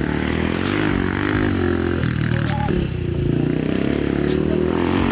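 ATV engine running, its revs rising and falling.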